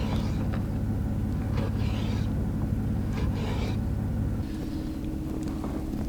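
A steady low engine drone that shifts to a higher, slightly quieter hum about four and a half seconds in. Over it come a few soft strokes of a very sharp knife slicing through a deer heart.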